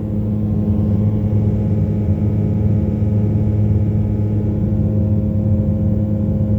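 Pickup truck engine running steadily with a deep, even hum; it picks up slightly about half a second in, then holds.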